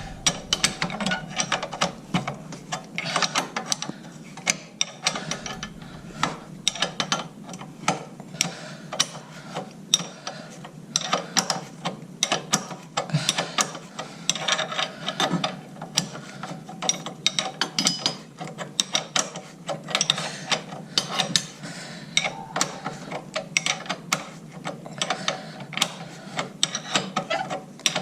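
Socket ratchet wrench clicking in quick runs of strokes as it is worked back and forth to undo a motorcycle center stand mounting bolt.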